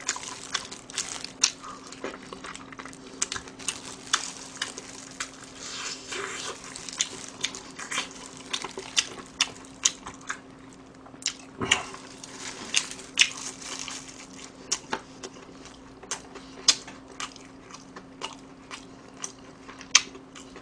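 Close-miked chewing and crunching of crispy fried chicken (bhc Curry Queen): irregular sharp crackles of the crisp coating between bites, over a faint steady hum.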